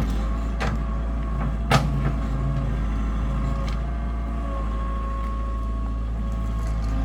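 A heavy vehicle's engine running steadily, with two sharp clicks, the second louder, about half a second and just under two seconds in.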